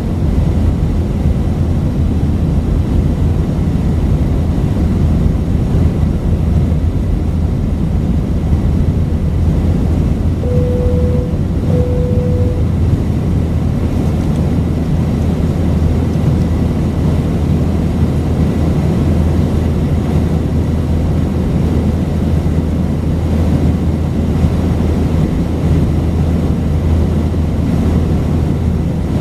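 Steady loud drone of an Airbus A319's engines and airflow heard inside the passenger cabin. About ten seconds in come two short chime tones of the same pitch, one right after the other, from the cabin chime system.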